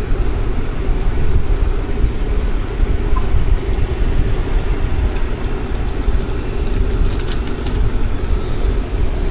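Steady city street traffic noise with a heavy low rumble. In the middle, four short high-pitched electronic beeps sound at an even pace, a little under a second apart.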